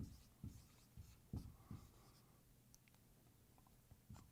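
Faint writing sounds: about five soft taps and strokes of a pen or chalk in the first two seconds, then near silence with a couple more light taps near the end.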